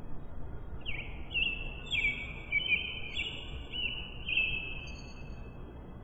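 Birds chirping: a run of short, high, overlapping calls from about a second in until near the end, over a steady low background noise.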